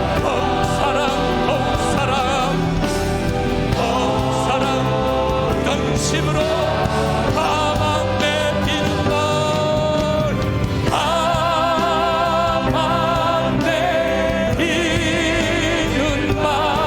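Live church praise band playing contemporary worship music: voices singing held notes with vibrato over keyboards, bass guitar and drums, with new sung phrases coming in near the middle and near the end.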